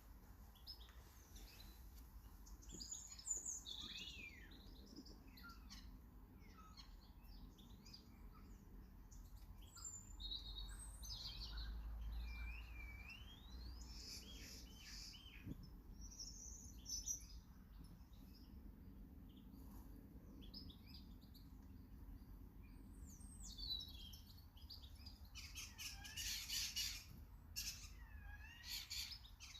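Small garden birds chirping and singing, many short overlapping chirps and whistled gliding notes, with a few louder, sharper notes near the end. A faint low rumble runs underneath.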